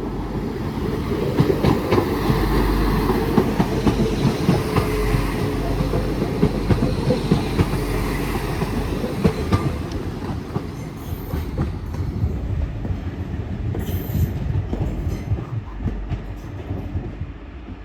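Class 197 diesel multiple unit passing through the station without stopping: a steady low rumble with rapid irregular clicks from the wheels on the rails, easing slightly near the end.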